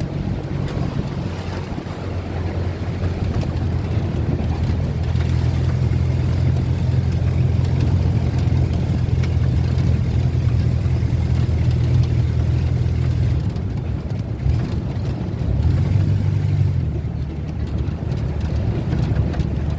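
Vehicle engine running steadily under a haze of road and wind noise. About two-thirds of the way through, the engine hum dips, then picks up again at a different pitch.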